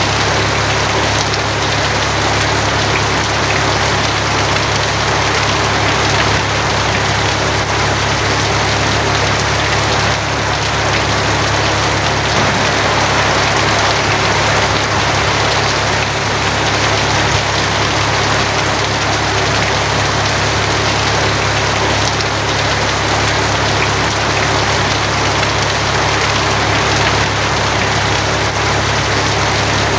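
Steady heavy rain drumming on a tin roof, a dense even patter, with a constant low rumble underneath.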